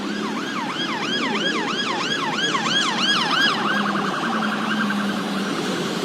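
Emergency vehicle siren on a fast yelp, rising and falling about three times a second, switching to a much faster pulsing tone about two-thirds of the way in, over a steady low hum.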